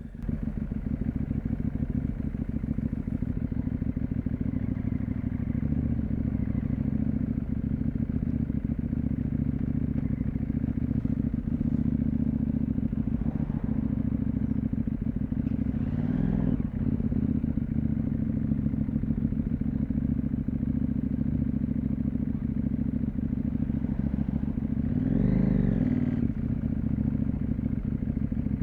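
CFmoto 800MT motorcycle's parallel-twin engine running steadily under way, with road and wind noise. Twice, about halfway through and again near the end, a higher engine note swells up and falls away.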